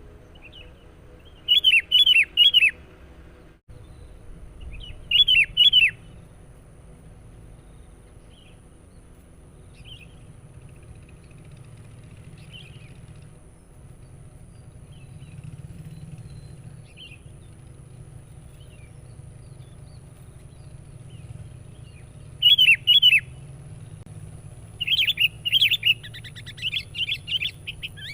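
Sooty-headed bulbul (kutilang) calling: short loud bursts of three or four quick, downward-sliding notes about a second in, around five seconds in, and again near the end, with faint scattered chirps in between over a low steady hum.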